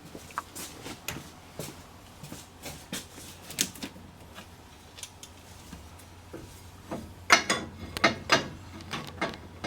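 Hand tools clicking and knocking against metal engine parts in irregular strokes, with a cluster of louder knocks about seven to nine seconds in. A faint steady low hum runs underneath.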